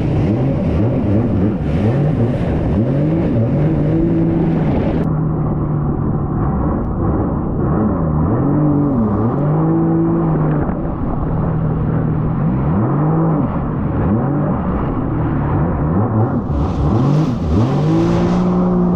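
An 1800cc jet ski engine is opened up again and again: its note rises and then holds steady at speed, about four times. Wind and water spray rush past, loudest at the start and again near the end.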